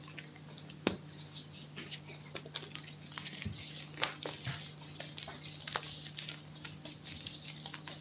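Chalk being crunched close to the microphone: a dense, irregular run of small crisp cracks and crackles, with a few louder snaps about a second in and again near the middle.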